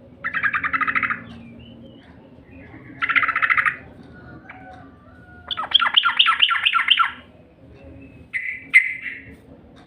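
Yellow-vented bulbul (trucukan) song: four bursts of fast, bubbly chattering notes, the third a longer run of quick downward-sweeping notes.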